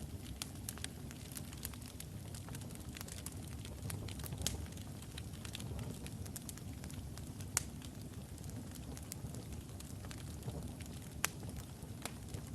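Wood fire burning in a fireplace: a steady low rumble of flames with frequent small crackles and a few louder single pops from the burning logs.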